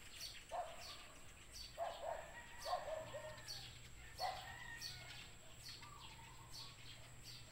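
Birds calling: short calls repeating roughly once a second, with faint high chirps between them.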